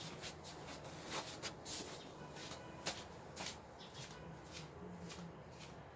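Faint rustling with scattered light clicks and taps as baby-bed parts are handled, one sharper click about three seconds in.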